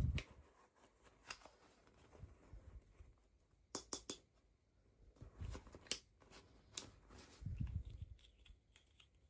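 Hands handling small plastic toy pieces and packaging: scattered sharp clicks and taps, a quick cluster of them about four seconds in, and a few soft thumps as items are set down.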